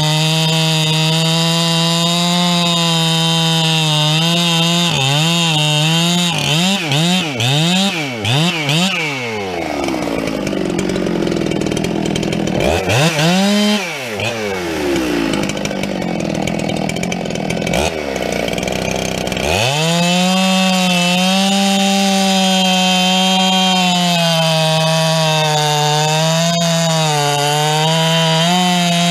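Two-stroke chainsaw engine running at high revs, its pitch swinging up and down several times about five to nine seconds in. It then drops low for about ten seconds, with one brief rev up and down midway, and climbs sharply back to a steady high pitch near twenty seconds in.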